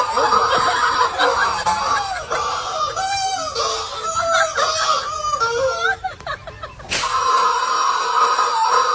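High-pitched squealing cries whose pitch wavers up and down, breaking off for about a second around six seconds in and then starting again.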